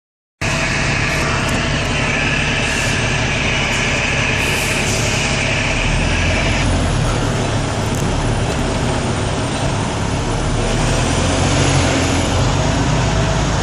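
Semi truck's diesel engine running steadily under way, with road and tyre noise, and a high band of noise in the first half that drops away about halfway through.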